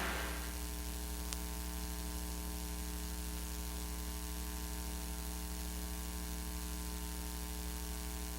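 Steady electrical mains hum with faint hiss on the audio of a VHS tape playback after the programme has ended, with one small click about a second in. The last of the bumper's sound dies away at the very start.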